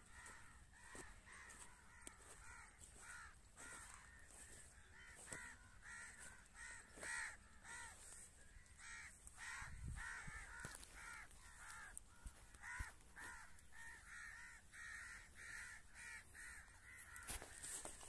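Faint bird calls repeated over and over, about two short calls a second, with a low thud about ten seconds in.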